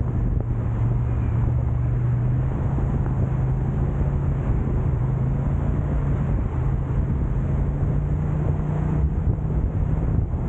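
Car driving: steady road and wind noise over a low engine hum that climbs slowly in pitch as the car gathers speed.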